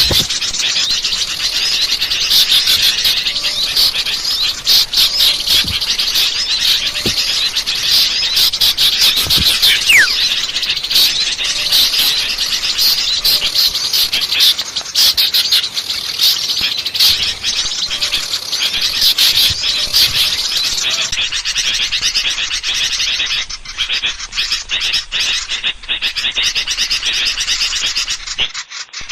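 Bird-lure recording of many small songbirds chattering and twittering at once in a dense, noisy chorus, with one falling whistle about ten seconds in.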